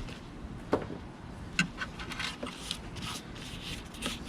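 A blade scraping and trimming old windshield urethane off a car's pinch weld. It makes a run of short, irregular scraping strokes with sharper ticks, the strongest about a second and a half in.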